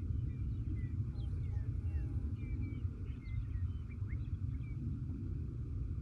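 Steady low wind rumble on the microphone, with faint birdsong over it: several quick chirps and short whistles from about a second in until about five seconds in.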